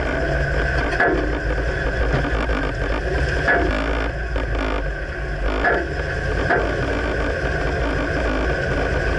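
A 2009 Dodge Ram pickup driving with a steady low rumble, broken by four short sharp knocks spread unevenly through it. The knocks are the clunk from the right rear side that the owner can't pinpoint.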